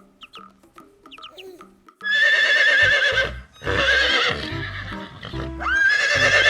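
Horse whinnying loudly three times in quick succession, each neigh shaking and wavering in pitch, after a couple of quieter seconds of faint calls.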